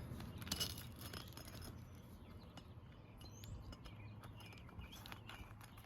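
Faint scraping and scattered light clicks of shingles being worked loose with a roof snake, with a brief louder scrape about half a second in.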